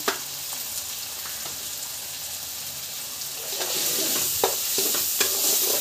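Boiled peas and ground spices sizzling in hot oil in a kadhai. About three and a half seconds in, a steel slotted spoon starts stirring them: the frying gets louder, and the spoon clicks and scrapes against the pan.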